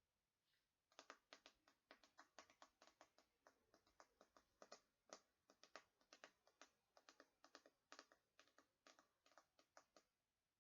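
Quick, irregular tapping and clicking on a hairbrush, several crisp clicks a second, starting about a second in.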